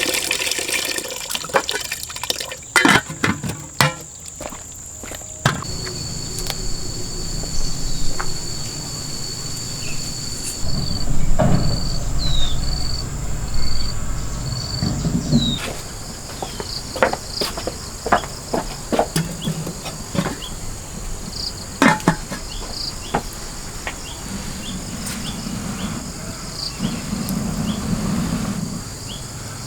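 Insects trilling steadily at a high pitch. A higher chirp repeats about twice a second from about five to fifteen seconds in. Scattered knocks and clatter sound throughout.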